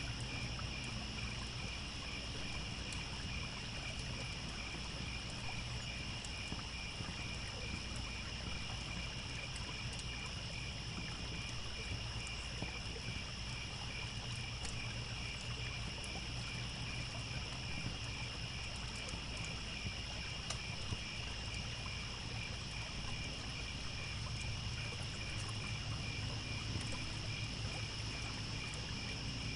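Crickets chirping in a steady chorus, several pitches at once, one of them pulsing evenly, over the hiss of a trickling stream, with faint scattered crackles from a wood campfire.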